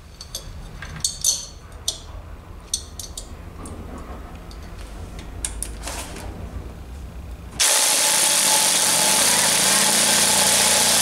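Light clicks and taps, then, starting suddenly about seven and a half seconds in, a loud steady whir for about four seconds. This is a Motobecane moped's two-stroke engine being spun over to check for spark from its freshly cleaned points.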